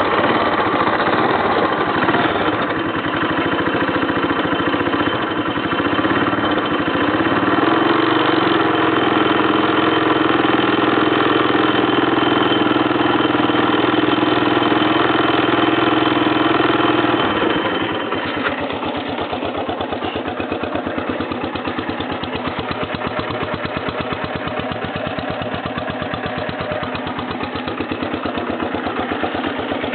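1983 Honda ATC200E Big Red's air-cooled single-cylinder four-stroke engine running just after a cold start, first at a raised speed, then dropping suddenly to a lower steady idle about seventeen seconds in.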